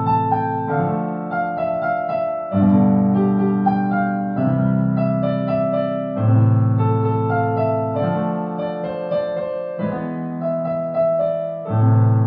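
Solo piano playing a melody over bass chords struck about every two seconds.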